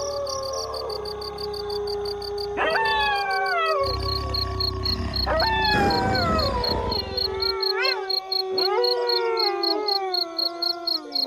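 A pack of wolves howling in chorus. One long howl is held at a steady pitch, while other howls break in high and slide down, about two and a half and five and a half seconds in. In the second half several howls overlap. A steady, high, pulsing chirp, like insects, runs underneath throughout.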